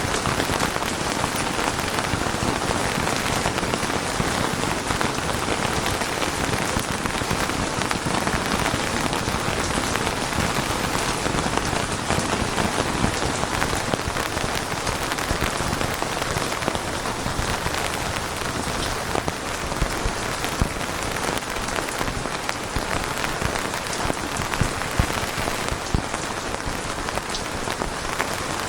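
Steady heavy rain falling on a surface, a dense even patter with a few louder individual drops near the end.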